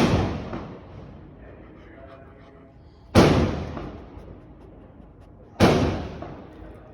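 Firecrackers going off: three loud bangs, one at the start, one about three seconds in and one about two and a half seconds after that, each fading away with an echoing tail.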